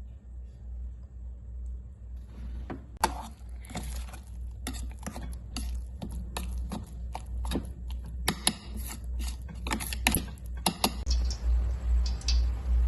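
A run of quick, irregular clicks and clinks of kitchen utensils being handled over a low hum; the hum grows stronger and pulses near the end.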